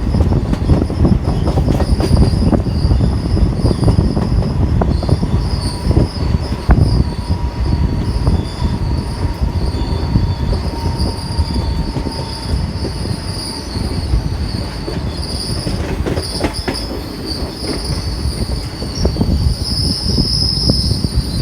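Indian Railways passenger train running, heard from on board: a steady rumble and rattle of wheels on the track with frequent quick clicks, and a continuous high-pitched whine over it.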